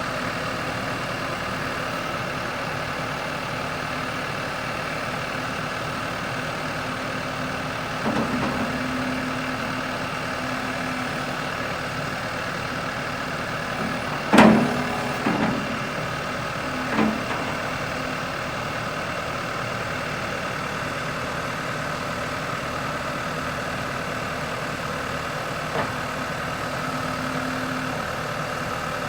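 Case IH 105C loader tractor's engine idling steadily. A few brief knocks or clunks come through, the loudest about halfway through.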